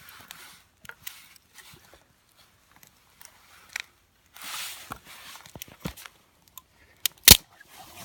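Small wood campfire crackling with scattered irregular snaps, one loud sharp snap near the end, and a brief rustle of logs and kindling being shifted about halfway.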